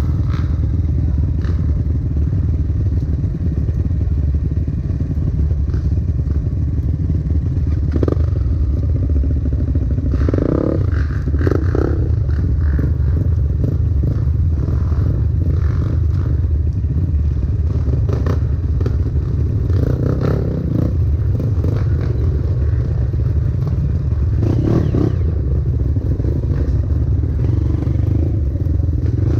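Dirt bike engine running steadily while riding a trail, with occasional clatter and knocks from the bike over rough ground.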